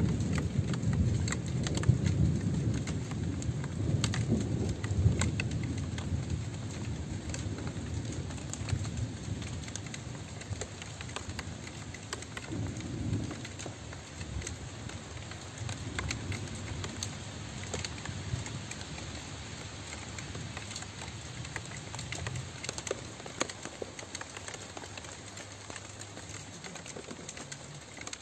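Steady rain with individual drops clicking, over a low rumble of thunder that is strongest in the first several seconds and then fades, with a couple of fainter rolls around the middle.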